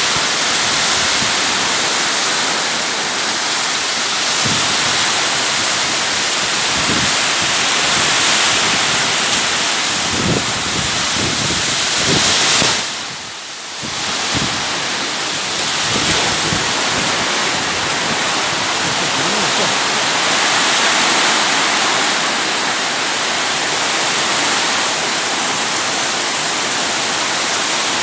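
Heavy rain pouring in strong wind: a steady, loud rushing hiss that drops briefly about halfway through, then comes back.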